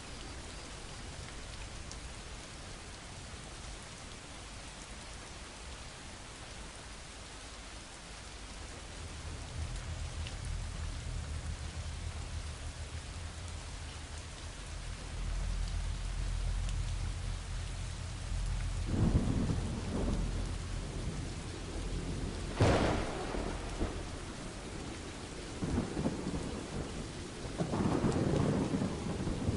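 Steady rain falling, with thunder rumbling in about a third of the way through and building. It breaks into crackling peals, with one sharp crack about three-quarters of the way in and more crackling near the end.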